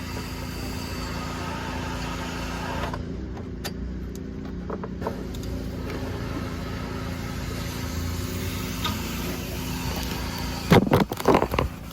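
A steady low hum, then near the end a quick cluster of loud metallic clanks and knocks as a ratchet, extension and socket are worked onto the engine's crankshaft bolt.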